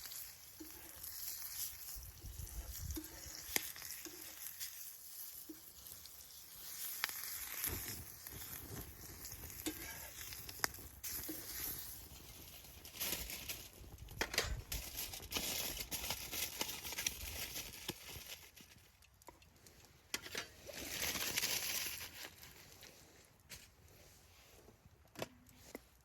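Wood fire in a fire pit crackling: a sizzling hiss with scattered sharp pops, swelling louder for a moment a little after 20 seconds in.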